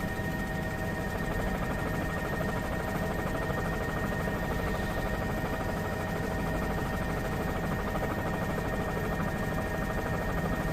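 Steady helicopter engine and rotor drone heard from inside the cabin, with a constant high whine over a low rumble.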